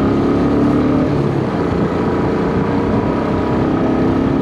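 Royal Enfield Bullet 350's single-cylinder engine running steadily while the motorcycle cruises, with road and wind noise beneath it.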